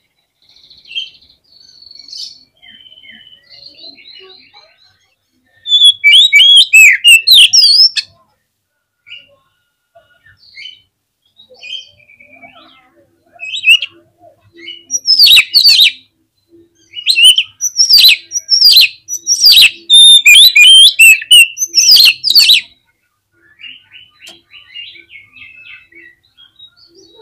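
Oriental magpie-robin in full song: soft twittering broken by loud bursts of rapid, sweeping whistled notes about six seconds in and again from about thirteen to twenty-two seconds.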